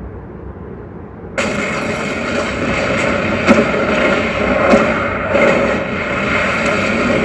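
Action-film sound effects: a dull rumble, then about a second and a half in a loud rushing noise cuts in suddenly, with a few sharp impacts over it.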